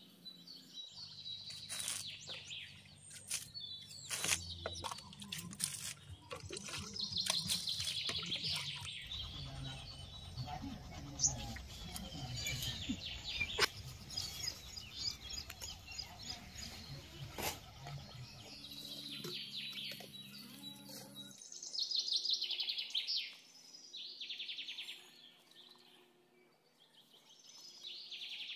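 Birds chirping and singing in repeated bursts, over a low steady hum that stops about two-thirds of the way through.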